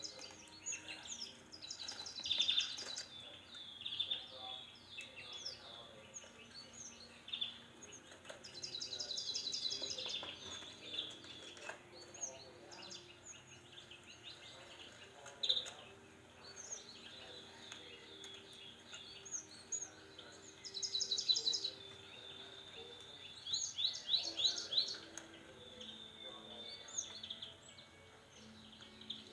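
Small songbirds chirping and singing: high chirps with several quick trills of rapid repeated notes, the loudest near the start, about 9 seconds in, and around 21 to 25 seconds in.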